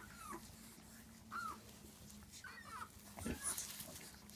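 Newborn piglets squealing faintly in short high squeaks, several times, while nursing on the sow, with a low thud about three seconds in over a faint steady hum.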